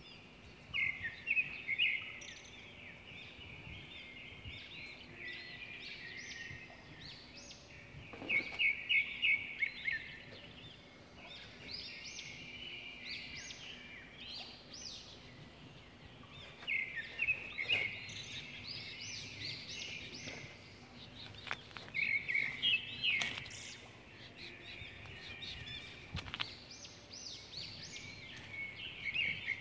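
Birds calling in repeated bursts of quick, high chirping notes, a few seconds apart, over a quiet outdoor background, with a few soft clicks.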